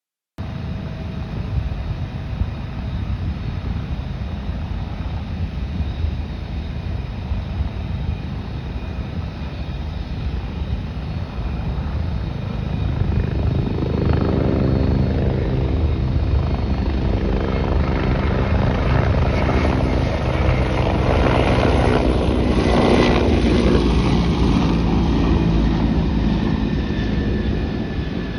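An aircraft at close range: a steady low rumble that grows louder from about halfway in, with sweeping whooshes as it passes, loudest around three quarters of the way through.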